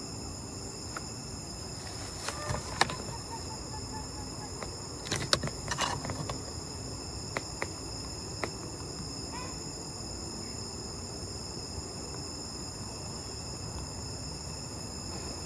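Steady high-pitched night insect chirring with a constant hiss. A few faint short calls come around two to three seconds in and again near the middle, with several sharp clicks between them; these are what the listener hears as a chicken's voice coming from inside.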